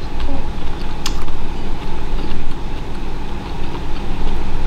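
Close-miked chewing of a chewy bite of stir-fried beef torpedo (bull penis), a dense low, mushy noise that swells and fades with each chew, with a sharp click about a second in.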